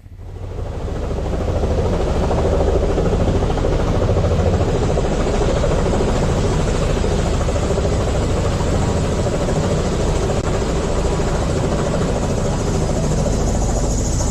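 Helicopter running, a steady dense rumble of turbine and rotor noise that starts suddenly at the beginning and cuts off abruptly near the end.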